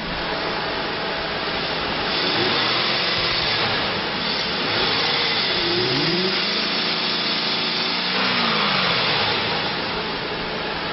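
2005 Chevrolet Silverado 1500's 5.3-litre V8 running steadily, revved up and back down a few times in the middle.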